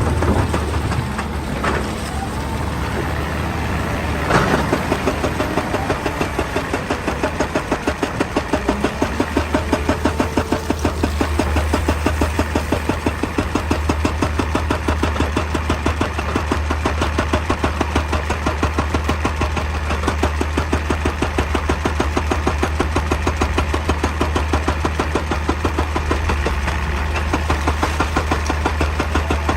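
Excavator's diesel engine running steadily with a fast, even pulsing beat, with two sharp knocks a couple of seconds apart near the start.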